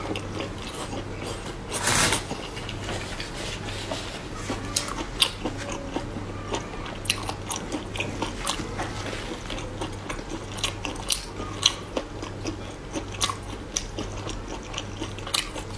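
A person biting and chewing spicy squid close to the microphone: many small wet clicks and crunches, with a louder burst about two seconds in.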